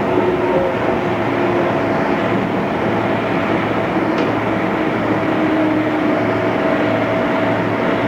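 JR East 211 series electric train running at a steady speed: the whine of its internally fan-cooled traction motors, several steady tones over wheel and rail noise. A faint tick comes about four seconds in.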